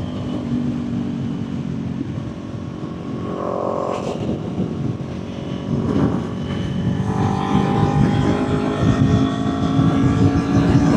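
Kawasaki Ninja 400 parallel-twin engine running at highway speed, a steady drone that gets louder about six seconds in and then rises slowly in pitch as the bike accelerates.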